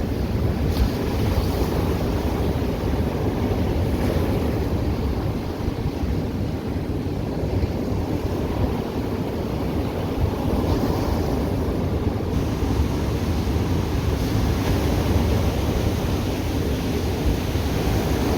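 Ocean waves breaking and washing on the shore in a steady, swelling wash, with a low rumble of wind on the microphone.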